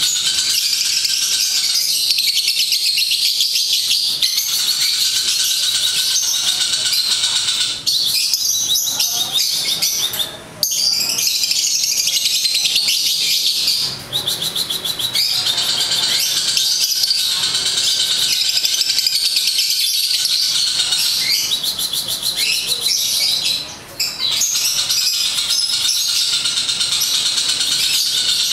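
Lovebird chattering: a steady stream of rapid, high-pitched chirps and squeaks, broken by short pauses about a third of the way in and near the end.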